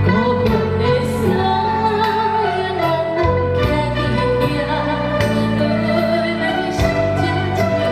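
Singing accompanied by a Chinese traditional instrument ensemble: a wavering melodic voice line over held string and bass notes.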